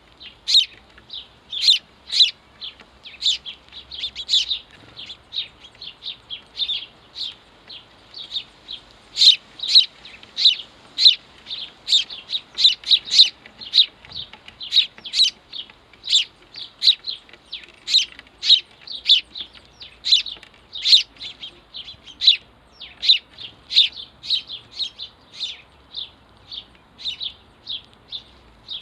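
House sparrows chirping: a steady, unbroken run of short, sharp chirps, two or three a second.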